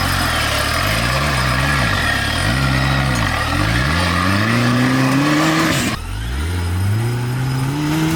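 An off-road 4x4's engine revving up and down several times in quick blips, then climbing steadily in pitch. The sound breaks off about six seconds in, and the engine picks up again with another rising rev.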